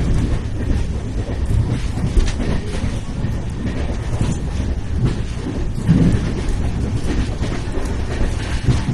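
Rajdhani Express train running at speed: a steady rumble of wheels on rails with faint clatter over the rail joints.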